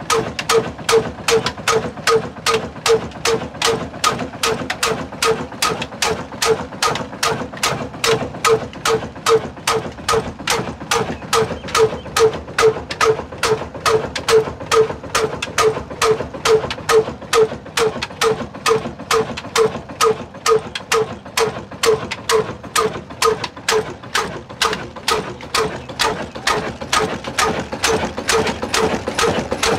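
Old heavy Ruston Hornsby-type black diesel engine running at slow speed with a steady, even beat, about two strokes a second.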